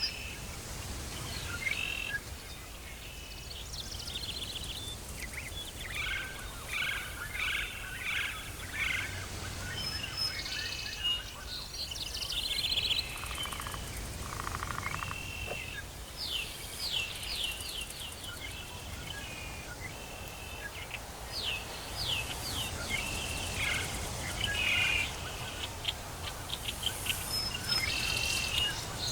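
Tropical forest ambience: several birds calling and trilling in short repeated phrases over a steady low background rumble.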